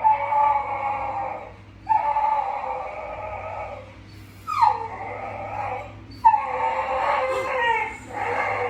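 A dog howling in a series of long, drawn-out calls with short breaks between them.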